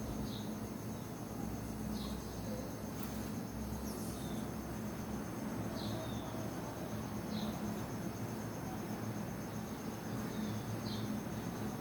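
Steady high insect trill, like crickets, with short high chirps every second or two over a low background hum.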